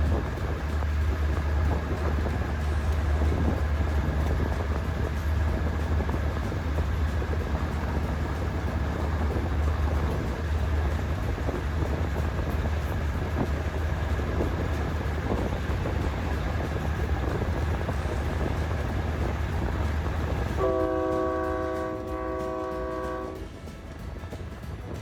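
Diesel train running with a steady low engine rumble and rail noise. About 21 seconds in its horn sounds one steady blast of about three seconds.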